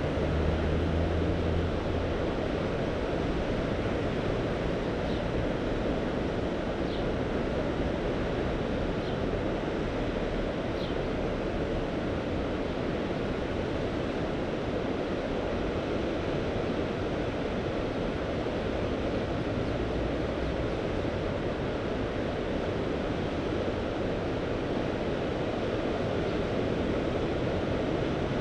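Mediterranean Sea surf washing steadily on the shore, an even wash of water noise with no distinct breaks. A brief low rumble in the first two seconds.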